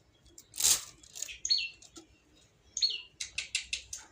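Caged songbird calling: two short high chirps, each dropping in pitch, then a quick run of sharp ticking notes near the end. There is a short hissy burst about a second in.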